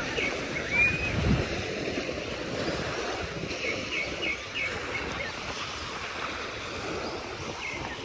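Sea waves washing on a beach, with wind buffeting the microphone.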